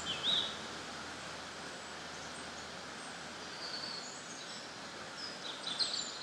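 Outdoor ambience: a steady hiss with a few short songbird chirps, once just after the start and several more near the end.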